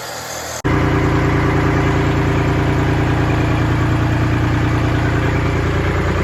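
Tractor engine idling steadily, starting abruptly about half a second in.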